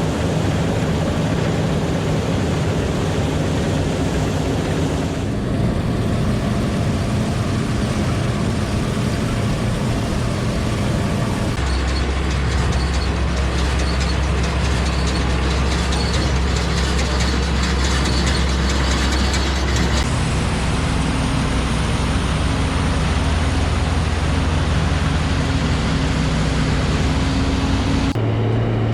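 Heavy farm machinery engines running steadily under load, from tractor and harvester clips that cut abruptly from one to the next, each with a different steady engine pitch.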